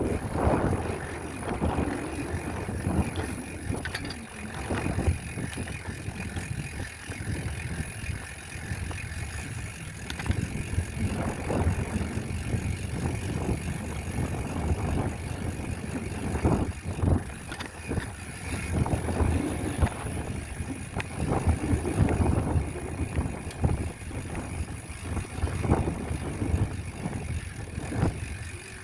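Bicycle ride recorded on a moving microphone: wind buffeting the mic in uneven gusts over road and tyre rumble, with occasional clicks and rattles from the bike.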